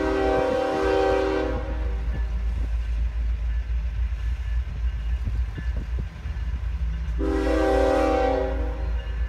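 Diesel locomotive's air horn sounding a chord of several notes at once: one blast that ends about a second and a half in and a second shorter blast about seven seconds in, over the steady low rumble of a slow-moving train.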